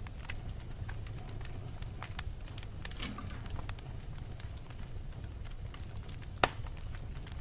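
Wood fire crackling in a fireplace: scattered snaps and pops over a low steady rumble, with one loud pop near the end.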